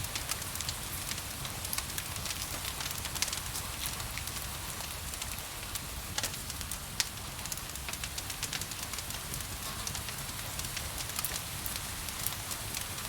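Wood fire in a fireplace crackling, with frequent irregular pops and one sharper pop about seven seconds in, over a steady hiss of rain.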